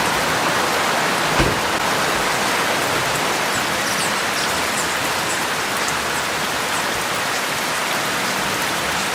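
Heavy rain falling steadily, with the patter of drops on surfaces and a single knock about a second and a half in.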